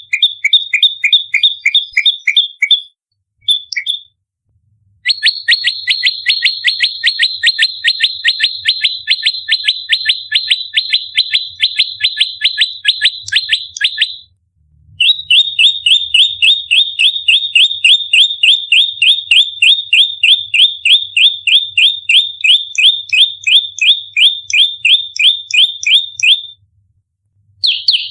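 Prenjak lumut songbird giving its fighting call, fast tight runs of sharp chip notes at about five a second, each dropping slightly in pitch. The runs are broken by short pauses about 3, 14 and 26 seconds in.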